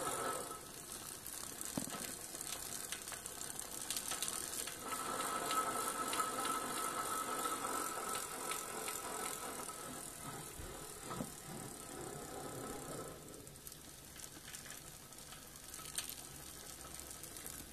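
Shimano Deore rear hub on a 700c bicycle wheel turning, with fast crunchy clicking and a steady whine for a few seconds in the middle. It goes quieter about two-thirds of the way through. The crunchy clicking is an unexplained hub fault that comes only under forward pedalling.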